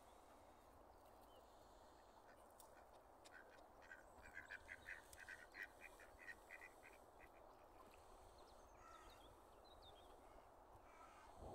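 A bird giving a quick run of short, faint calls, about three or four a second, for a few seconds, then a few faint high chirps. Low hiss underneath.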